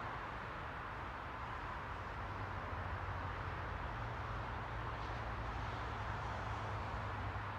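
Steady white-noise hiss, strongest in the middle of the range, over a low hum that grows slightly louder about three and a half seconds in.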